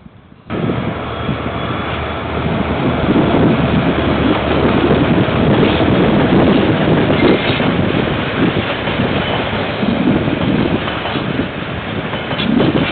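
KiwiRail train passing close by: a steady, loud rumble of wheels on the rails that starts suddenly about half a second in and is loudest in the middle.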